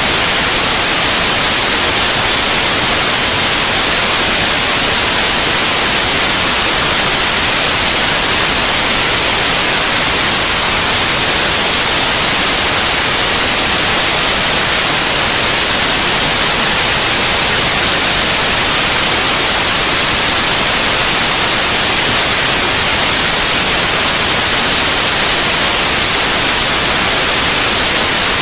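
Steady white noise, an even loud hiss across all frequencies that never changes, played as a sleep aid for babies.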